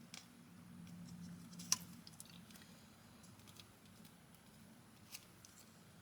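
Faint handling noises from a small adhesive camera mount being pressed and fiddled with: a few light clicks and taps, with a sharper click a little under two seconds in and another near the end.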